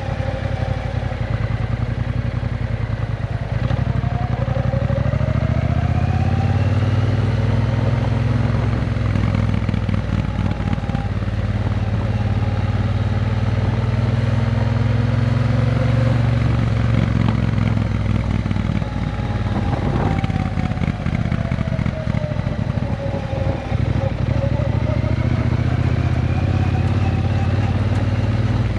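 Triumph Bonneville T120's 1200 cc parallel-twin engine running through a Vance & Hines exhaust at a fairly constant engine speed. A fainter whine higher up dips and rises twice.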